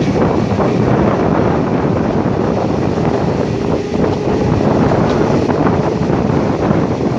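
Steady rushing noise of a moving train, the running rumble mixed with wind buffeting the microphone.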